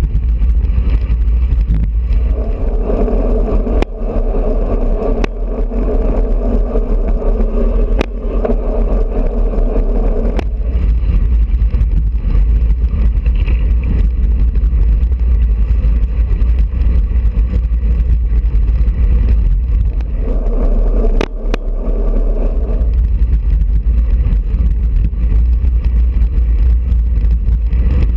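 Wind buffeting the microphone of a bicycle-mounted GoPro at riding speed, with road rumble and scattered sharp clicks and rattles. A droning hum comes in for several seconds early on and again for a few seconds in the second half.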